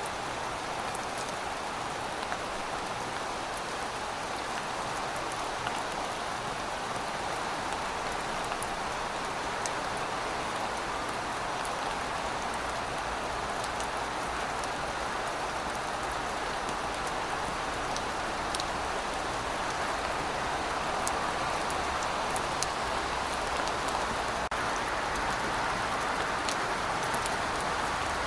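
Heavy rain falling steadily: a dense, even hiss with scattered sharp ticks of individual drops, growing slightly louder in the second half.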